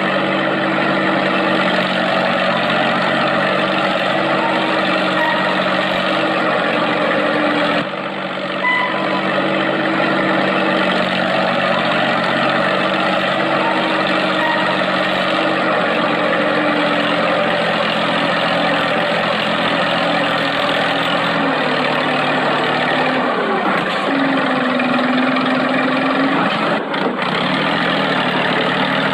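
Mini tractor's engine running steadily, its pitch shifting a little after about twenty seconds.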